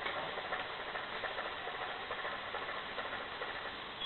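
Car engine and cabin noise picked up by a dash camera's microphone: a steady, even rumble with faint small ticks and rattles.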